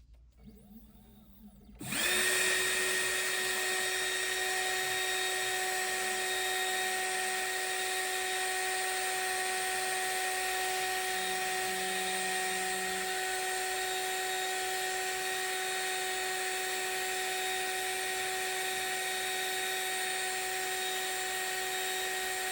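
A CNC mill's spindle starts about two seconds in and runs at a steady speed with a constant whine, turning a 300-micron end mill for cutting channels in acrylic (PMMA).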